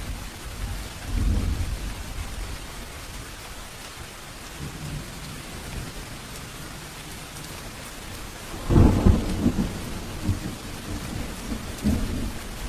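Steady rain falling with thunder: a low rumble about a second in, then a louder thunderclap about nine seconds in that rolls on in rumbles for a few seconds.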